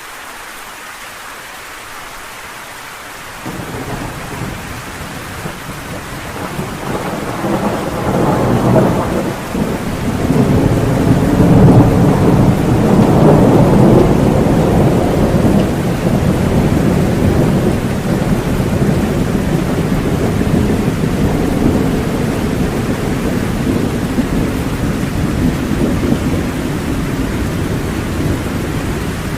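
Steady rain with a long roll of thunder: the rumble comes in suddenly about three and a half seconds in, builds to its loudest about halfway through, then slowly fades under the rain.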